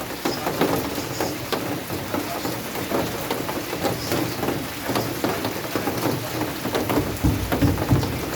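Rain falling steadily, many drops spattering on surfaces. A low rumble comes in near the end.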